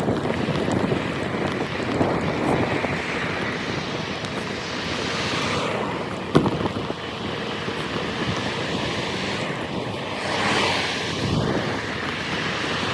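Wind rushing over the microphone on a moving bike, a steady noisy rush that swells twice, with a single sharp knock about six seconds in.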